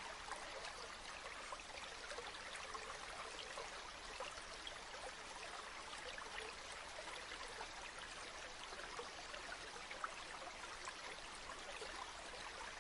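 River water flowing steadily, a soft babbling with many small splashes and trickles.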